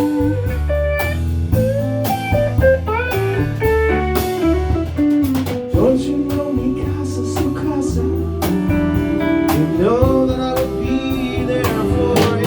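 Live band playing an instrumental break in a blues-rock song: a lead guitar solo with sliding, bending notes over bass guitar and drum kit.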